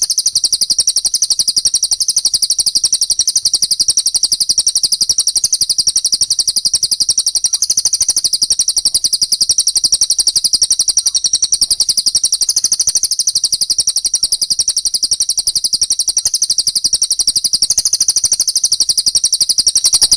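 A small songbird's high, very fast trill of chirps, unbroken and even.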